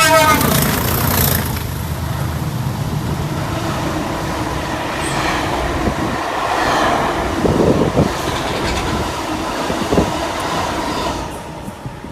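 Class 20 diesel locomotive's English Electric 8SVT V8 engine thrashing under full power as the train runs past, with wheels clattering over rail joints and a few sharp knocks. It drops away near the end.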